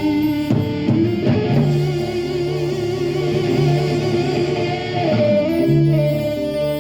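Live rock band playing an instrumental passage: an electric guitar lead holds long, wavering notes over a repeating bass line.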